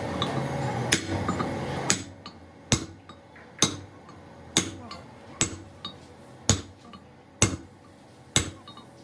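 Hammer blows on metal at a steady pace of about one a second, starting about two seconds in, each a sharp separate strike with a short ring.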